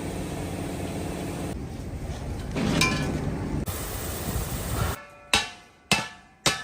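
A steady mechanical noise for about five seconds, then three sharp strikes on steel, about half a second apart, each ringing and dying away: a hammer on the gas-cylinder steel being worked into a stove.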